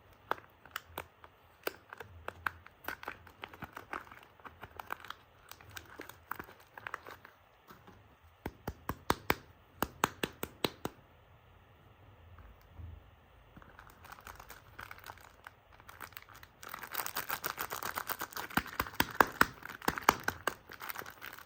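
A soap bar's wrapper being unwrapped by hand: scattered sharp crinkles and small tearing sounds, which turn into a denser, louder run of crinkling near the end.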